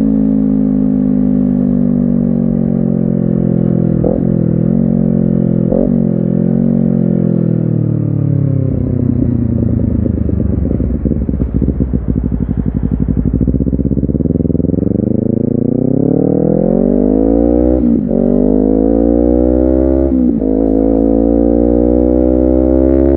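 Honda CBR250RR parallel-twin engine and exhaust on the move. The revs fall with two brief breaks about four and six seconds in as it slows and downshifts, then chug low for a few seconds. It then accelerates hard, the pitch rising through the gears with quick upshifts about eighteen and twenty seconds in.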